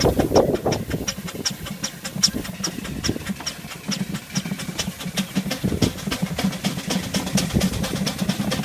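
Miniature Ruston Proctor steam traction engine chuffing steadily under way, its exhaust beats coming about four a second over a low running rumble.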